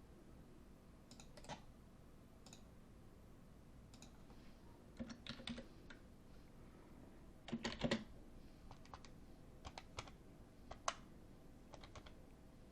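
Faint, irregular computer keyboard keystrokes and clicks in small scattered groups, with a louder cluster of keystrokes just before the 8-second mark.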